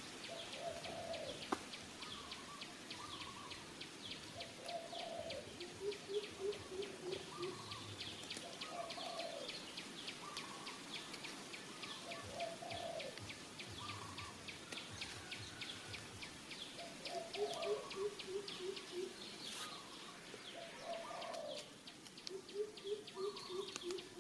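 Birds calling: a short call repeated every two to three seconds, and three times a quick run of about six low, evenly spaced notes, over a fast, steady high ticking. One sharp click about a second and a half in.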